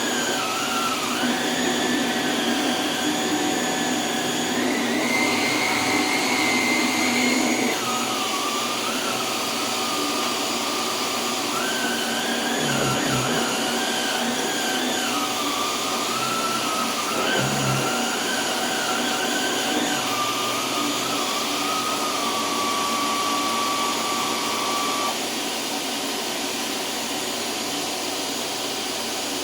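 Cyclonic canister vacuum running with a powered brush-roll head on a rug. There is a steady rush of suction, and its motor whine shifts up and down in pitch as the head is worked across the rug.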